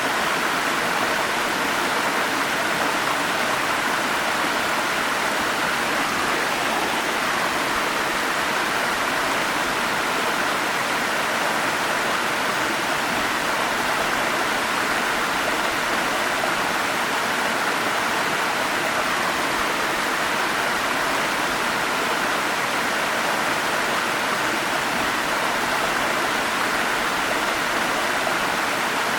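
Forest stream flowing steadily: an even, unbroken rush of running water.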